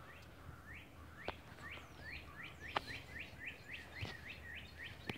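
A small bird chirping over and over, short upward-sweeping chirps that come faster, about three a second later on. A few sharp clicks sound in between.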